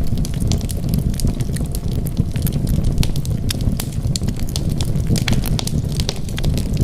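Wood fire burning in a fireplace: a steady low rumble of flames with many quick, irregular crackles and pops of burning wood.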